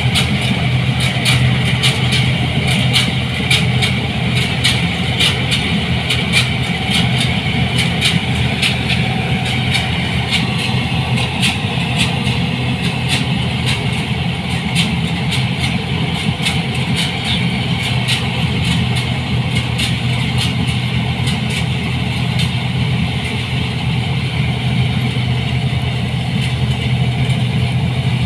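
New Holland 8060 combine harvester running steadily with a strong low engine hum, overlaid with frequent irregular sharp clicks and rattles from the machine.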